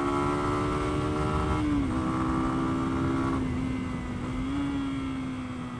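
Lexmoto Venom 125's single-cylinder engine running at steady revs under load, dipping slightly in pitch a little under two seconds in, then easing off with the throttle closed about three and a half seconds in, over wind rush.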